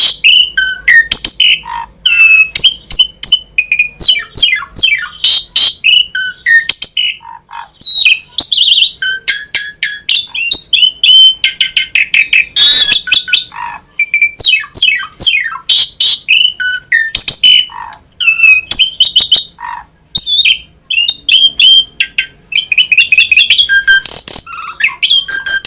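Asian pied starling (jalak suren) singing in full, non-stop song: a rapid, varied stream of whistles, quick falling notes, clicks and chatter, with a harsh rasping burst about 13 s in.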